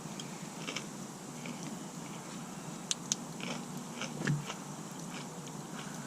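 Dog chewing close by: scattered small clicks and crunches, with a soft thump a little after four seconds in.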